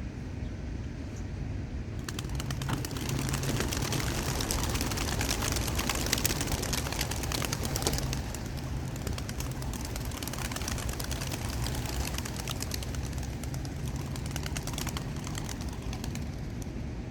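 A flock of young racing pigeons takes off together with a sudden rush of flapping and clapping wings about two seconds in. The flapping is loudest over the next several seconds and then eases off. A steady low hum runs underneath.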